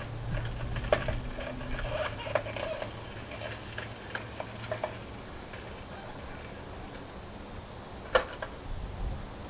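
Scattered metallic clicks and clanks of a floor jack and jack stands being worked to lower a car, with two sharper knocks, one about a second in and one near the end, over a low hum that fades out about halfway through.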